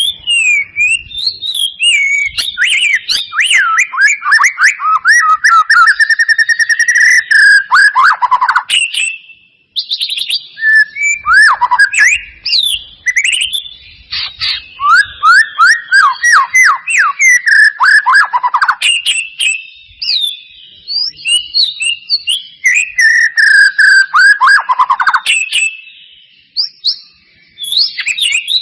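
White-rumped shama song played as a lure recording: loud phrases of rapid, repeated whistled notes that slur downward, each phrase running lower toward its end. There are short breaks between the phrases.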